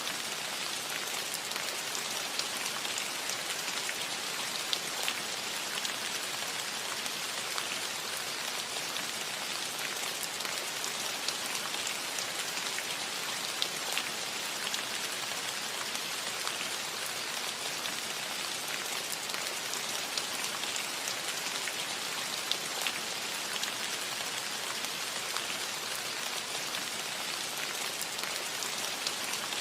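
Steady light rain on a metal roof: an even hiss scattered with sharp ticks of individual drops striking the metal.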